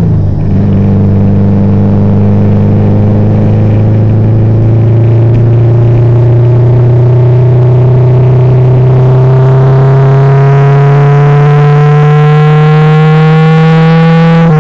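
Car engine heard from inside the cabin, pulling in one gear with its pitch rising slowly and steadily as the car gains speed.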